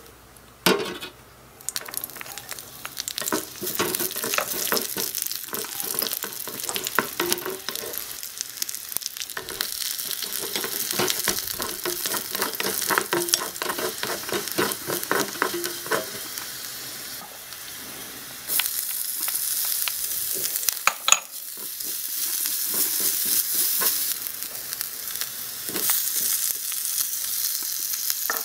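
Food frying in a miniature aluminium wok over a small gas flame: a steady sizzle with many light clicks and scrapes as a tiny wooden spatula stirs against the metal. The sizzle gets louder about two-thirds of the way through.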